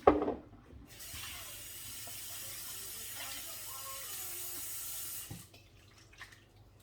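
Kitchen tap running into the sink over raw chicken wings being washed, a steady rush of water for about four seconds that is shut off near the end. A brief loud sound comes at the very start, before the water.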